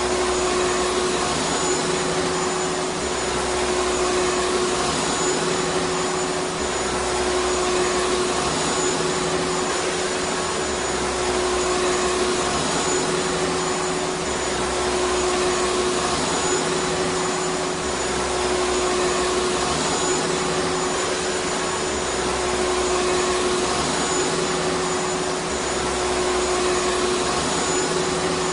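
Vacuum cleaner running continuously: a steady rush of air with a constant whine, under a faint low throb that swells and fades about every two seconds.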